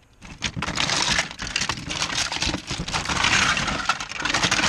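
Plastic action figures and bags rustling and clattering as they are rummaged through in a tote, with many small clicks and knocks over a rustling hiss that swells and fades.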